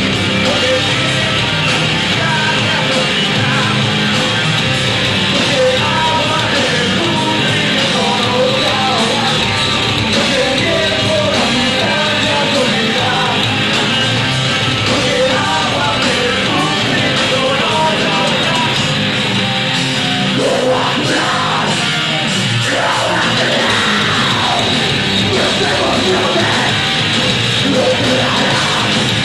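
Live heavy metal band playing loud, with distorted electric guitars, bass and drums under shouted vocals.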